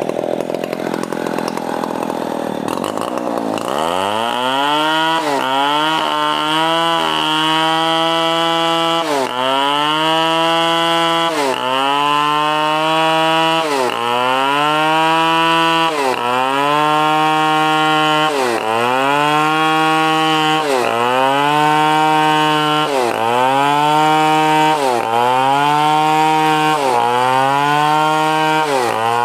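Stihl 070 two-stroke chainsaw running at high revs, its pitch dipping and climbing back about every two seconds as the chain is pressed into the wood and eased off.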